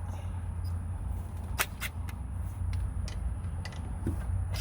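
A few light, sharp metal clicks of a 12 mm socket and ratchet being handled and set on a brake caliper bolt, over a steady low rumble.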